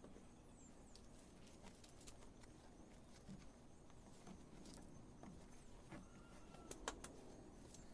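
Near silence: faint ambience with scattered light clicks and taps, two slightly louder ones near the end.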